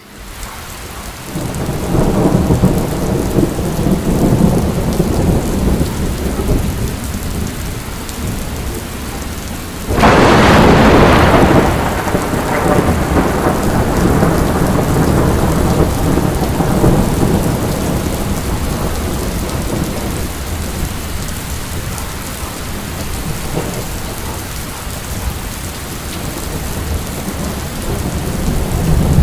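Rainstorm: steady rain with rumbling thunder, and a sudden loud thunderclap about ten seconds in that rolls away over the next few seconds.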